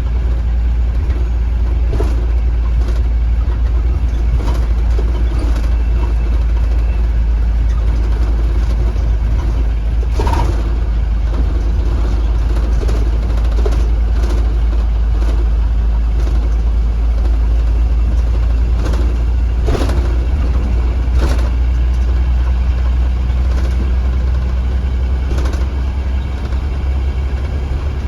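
2015 Blue Bird Vision school bus driving, its engine giving a steady low rumble, with several short knocks and rattles from the body scattered through.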